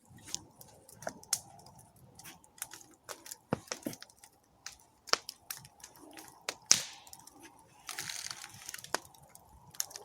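Campfire burning wood, crackling with irregular sharp pops and a brief hiss about eight seconds in.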